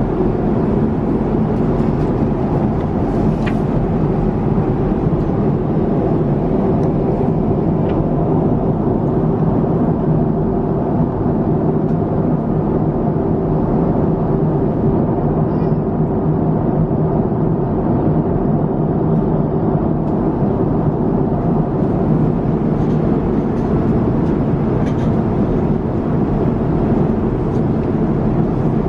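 Steady cabin noise of an Airbus A350-900 airliner in flight: an unbroken rushing drone of engines and airflow, with a few faint clicks.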